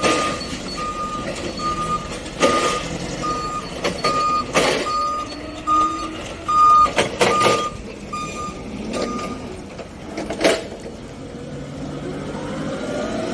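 Forklift reversing alarm beeping steadily at about one and a half beeps a second and then stopping, with several loud knocks and clunks of pallets being handled while a truck is loaded. Near the end, a rising motor whine.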